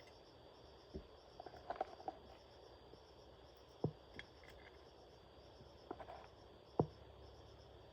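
Faint steady high chirring of insects, with three sharp light knocks spread through it and a few small clinks, like metal parts or tools being handled.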